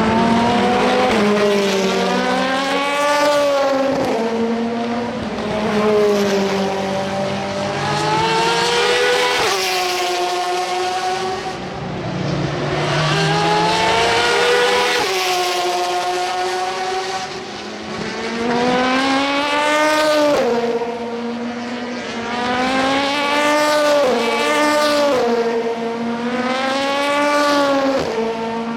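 Endurance race cars passing one after another at racing speed. Their engines rise in pitch through a run of gear changes and fall away as each car goes by, with several cars overlapping.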